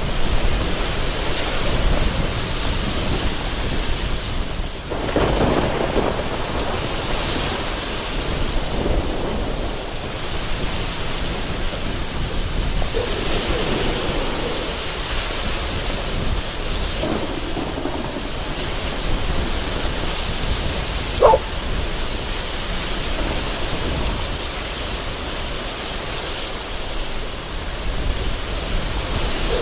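Heavy rain beating against a window in a thunderstorm, a steady hiss of rain and gusting wind with low rumbles of thunder swelling and fading. A single short sharp tick sounds about two-thirds of the way through.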